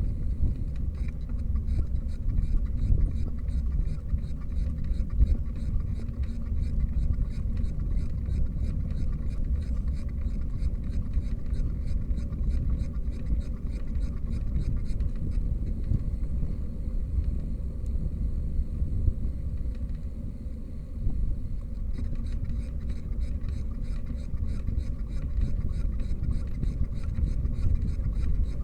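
Riding a bicycle: a steady low rumble of wind and rolling, with a fast, even ticking that fits the rear hub's freewheel while coasting. The ticking stops for a few seconds a little past the middle, then resumes.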